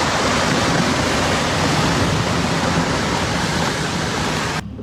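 Rushing floodwater from a river in flood: a loud, steady rush of water that cuts off suddenly near the end.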